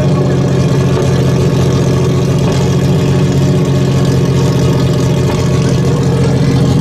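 Car engine running steadily at idle, a constant low hum that holds one pitch throughout.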